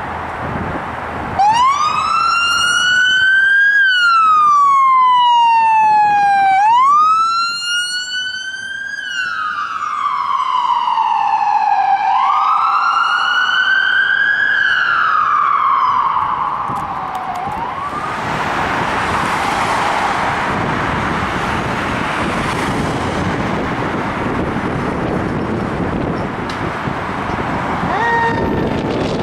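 Electronic siren of a responding fire apparatus in wail mode, rising and falling slowly through about five cycles. It gives way to a loud, even rush of vehicle and road noise, and a siren sweep starts up again near the end.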